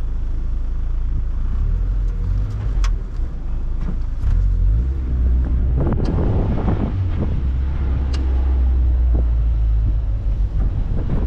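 NB Mazda Miata being driven: a steady low engine and road rumble, with a few light clicks and knocks over it.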